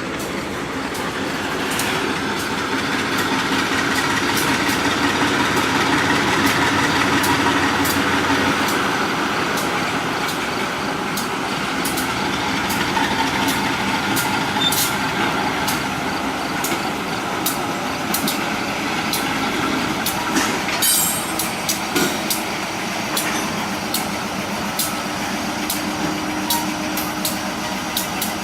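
Freight train rolling past: a steady rumble and hiss from the moving cars, with irregular sharp clicks of wheels passing over rail joints.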